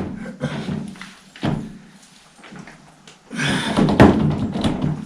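Heavy steel tractor transmission parts knocking and clunking as they are worked by hand, with a solid thud about a second and a half in, then a longer stretch of metal scraping and clattering from a little past three seconds until near the end.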